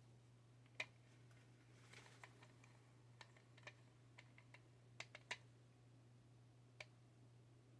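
Faint, scattered clicks and taps of small 3D-printer parts being handled, the sharpest about a second in and a quick cluster around five seconds, over a steady low hum.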